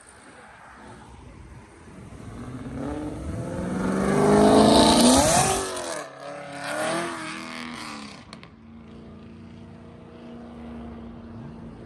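A car accelerating hard past, its engine revving up in pitch and getting loud about five seconds in. The pitch then drops sharply, it revs briefly once more, and it fades into a lower steady engine hum.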